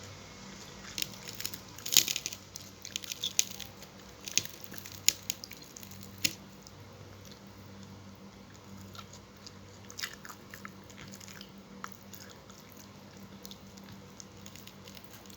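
Close-up mouth sounds of a person eating fried tilapia: crisp biting and chewing clicks, dense for the first several seconds and sparser after, over a faint steady hum.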